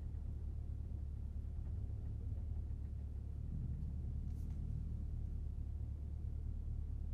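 2016 Dodge Challenger Scat Pack's 6.4-litre HEMI V8 idling steadily, heard from inside the cabin as a low, even hum.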